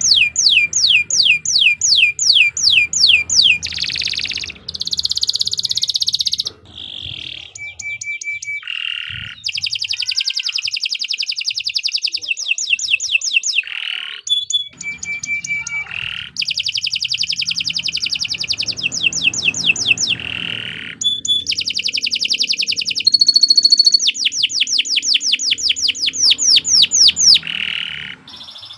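Domestic canary singing a long, continuous song: fast repeated upward-sweeping notes, rapid rolling trills and buzzy tours, and short whistled tones, one phrase changing to the next every second or two.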